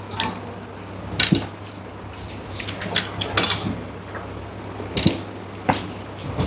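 Mukbang eating sounds: a string of sharp metallic clinks and jingles, about seven spaced irregularly, over a steady low hum.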